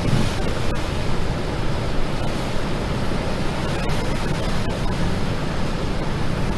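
Floodwater rushing steadily through the open spillway gates of a large dam, with wind buffeting the microphone.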